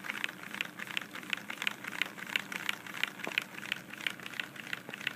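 Lego model diesel engine running slowly, its plastic pistons and crankshaft making a quick, even clicking knock, about five a second. The knock comes from the cranks being set at 90 degrees, and the builder says it makes the engine sound like a diesel.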